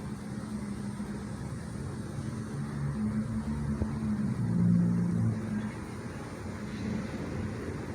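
Low engine hum of a motor vehicle, swelling louder about four to five seconds in and then easing off.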